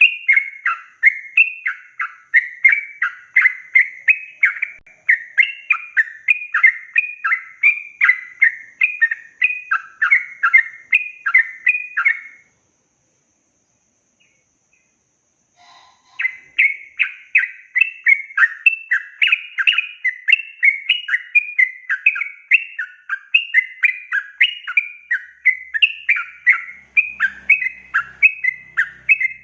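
Yellow-vented bulbul (trucukan) singing long, fast runs of short whistled notes. Near the middle it stops for about three and a half seconds, then starts up again.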